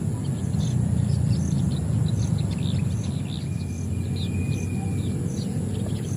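Birds chirping in short notes, with a high note repeating a little more than once a second and one drawn-out whistle in the middle, over a steady high insect drone. A steady low rumble runs underneath and is the loudest part.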